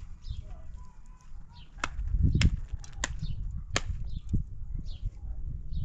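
Several sharp cracks, about five, irregularly spaced and mostly after the first second and a half, over a steady low rumble.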